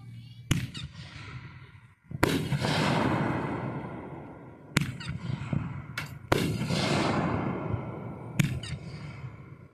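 Fireworks exploding: about six sharp bangs within ten seconds. The two loudest are each followed by about two seconds of noise dying away.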